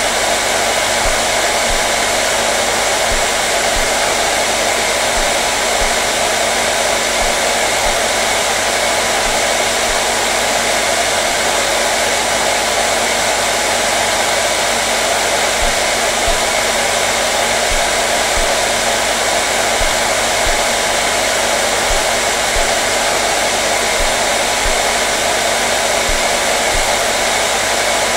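Hair dryer running steadily, a constant rushing blow of air with a low motor hum underneath, unchanging throughout.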